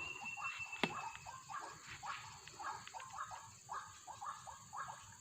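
White-breasted waterhen calling: a rapid run of short repeated notes, about three a second. A single sharp click sounds a little under a second in.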